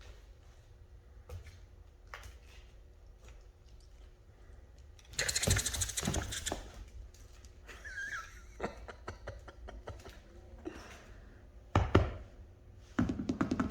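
Rottweiler puppies moving about a small room: scattered light clicks and knocks. There is a louder scuffle about five seconds in, a brief squeak a little later, a sharp knock near the end, and then fast steady tapping.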